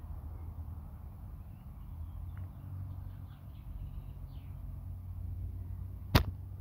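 Faint bird chirps over a steady low outdoor rumble, with one sharp click near the end.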